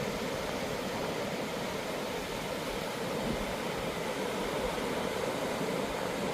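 Ocean surf breaking on a beach: a steady, even rushing wash with no single wave crash standing out.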